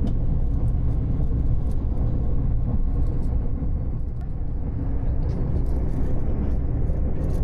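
Passenger train running at speed, heard from inside the carriage: a steady low rumble with a few faint, irregular clicks and rattles.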